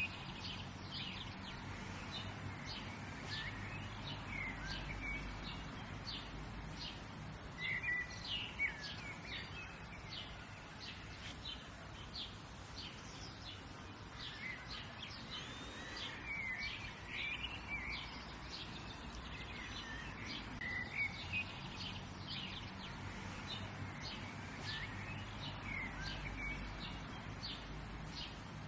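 Birds chirping and calling outdoors, many short high chirps coming thick and fast, over a steady low background rumble.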